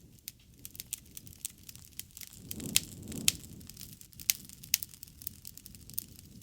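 Wood fire crackling, with irregular sharp pops; the two loudest come about three seconds in, while a low rush of flame swells briefly.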